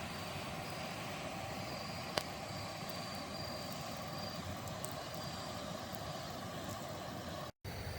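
Steady rush of loud flowing water from a stream, with a single sharp click about two seconds in. The sound cuts out for a split second near the end.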